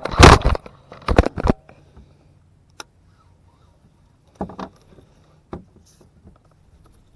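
Loud scuffling and knocking of a fish and landing net being handled in a small boat, in two bursts in the first second and a half, then a sharp click and a few softer knocks.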